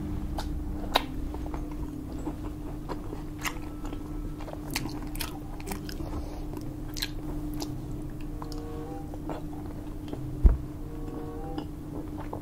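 Close-miked mukbang eating: grilled pork belly being bitten and chewed, with many sharp wet clicks and smacks over a steady low hum. One dull thump about ten and a half seconds in.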